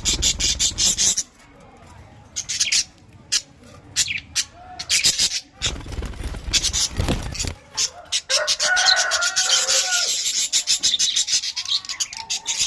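Flock of budgerigars in a colony aviary chattering, a dense run of quick, scratchy chirps that grows busier and louder from about eight seconds in. A low rumble comes twice, at the start and about six seconds in.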